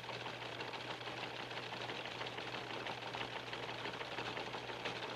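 Background noise of an old analogue videotape recording with no programme sound: steady hiss and a low hum with a fine, rapid crackle.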